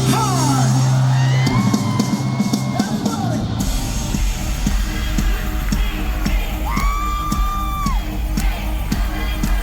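Live J-rock band playing a loud rock song: a held guitar chord gives way to a steady drum beat with heavy bass about three seconds in, and a singer holds a long shouted note a little past the middle.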